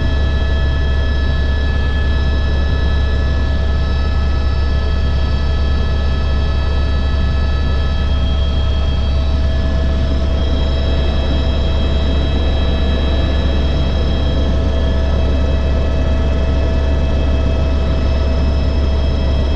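Helicopter running steadily, a loud low rotor drone under several steady high turbine whine tones.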